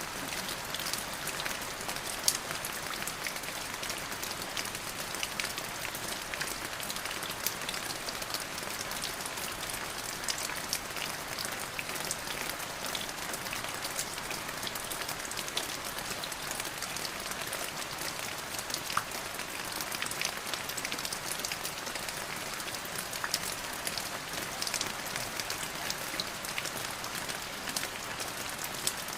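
Steady rain falling on a surface, an even hiss dotted with the sharp ticks of individual drops striking close by.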